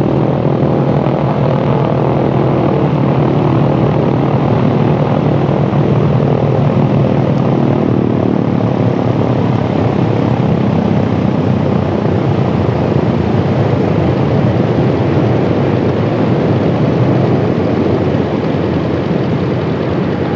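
Piston-engined propeller aircraft running loudly, a continuous engine drone whose even hum grows rougher and noisier about halfway through.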